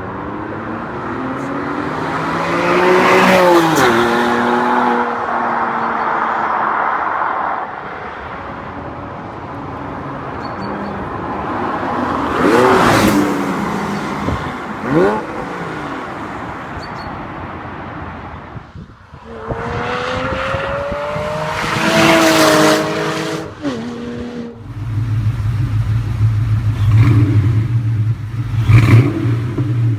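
Car engines with aftermarket exhausts revving, in several separate recordings: throttle blips that rise and fall in pitch, a car passing around halfway, and after a change about 25 seconds in, a deep steady idle broken by sharp revs.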